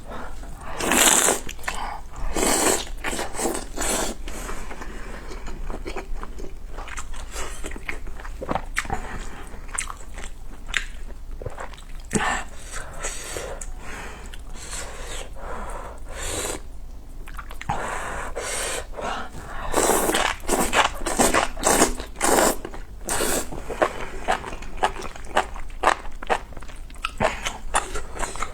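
Close-miked mouth sounds of someone eating a meal of spicy ramyun noodles, rice cakes and dumplings: biting and chewing, with many short, irregular smacks and clicks, busiest about a second in and again around twenty seconds in.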